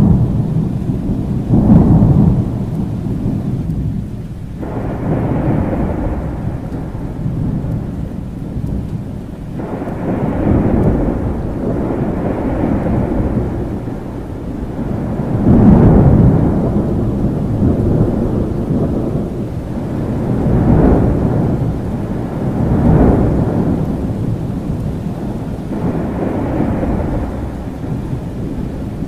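Thunder rolling again and again over steady rain: low rumbles that swell and fade every few seconds, the loudest right at the start and again about halfway through.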